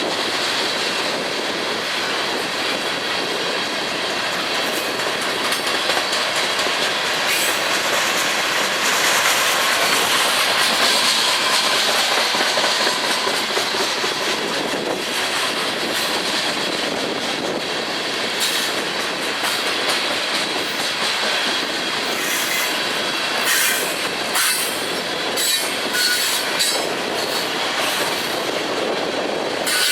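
Freight train cars rolling past on the rails: a steady rumble of wheels on track with a thin squeal of wheel flanges, and a run of sharp clicks in the later part as wheels pass over rail joints.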